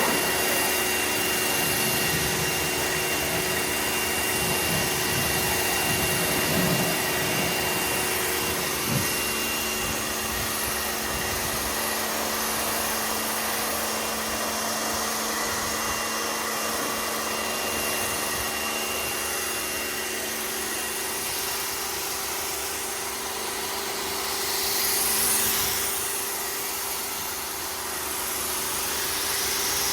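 Pressure washer running steadily, its motor hum mixed with the hiss of spraying water.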